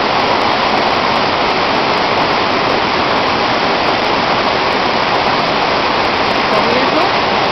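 Waterfall and river water rushing, loud and steady, with no breaks.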